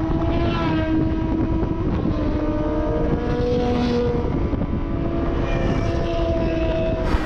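Straight-piped sportbike engine running at a fairly steady cruise while riding, its note drifting gently up and down in pitch over a steady rush of noise.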